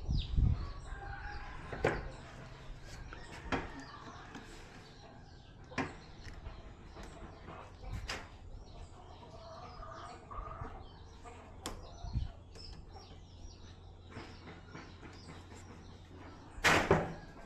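Scattered light clicks and knocks of TV panel parts being handled, with faint bird chirps behind, and a louder rough rustle or scrape of about half a second near the end.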